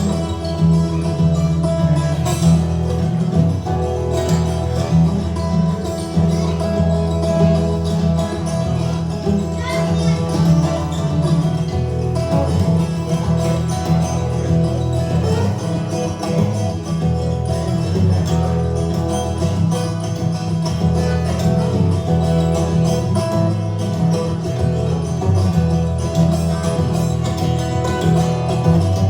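Live music with no singing: strummed and plucked guitar over a steady line of low notes.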